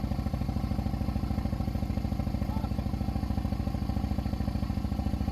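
Harley-Davidson motorcycle's V-twin engine idling with a steady, even pulse.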